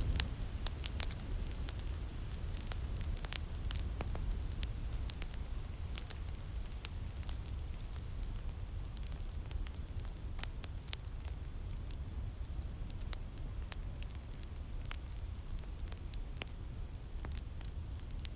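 Wood fire crackling with irregular sharp pops over a steady low rumble of winter wind.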